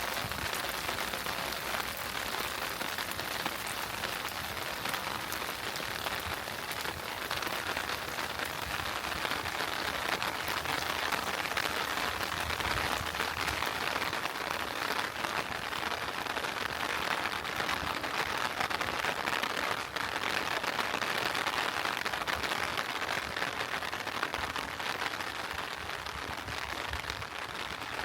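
Heavy rain falling steadily, an even hiss of drops with no breaks.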